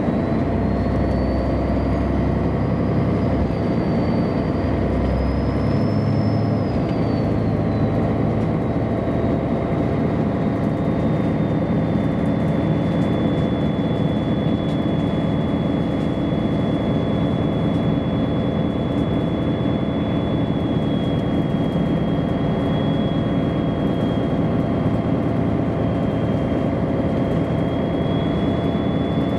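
Cabin sound of a MAN A23 articulated city bus under way: a steady heavy engine and road hum, with a thin high whine that rises and wavers over the first several seconds and then holds level.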